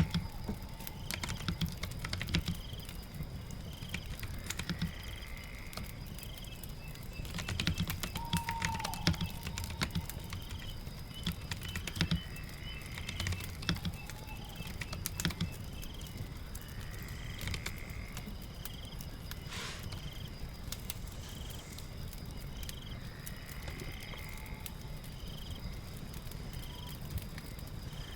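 Computer keyboard typing in irregular clicks over steady rain patter, with faint chirps repeating at a regular pace in the background.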